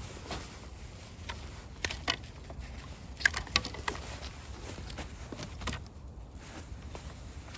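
Sticks and branches being handled and laid for a campfire: irregular knocks, clicks and snaps of wood, the loudest a little after three seconds in.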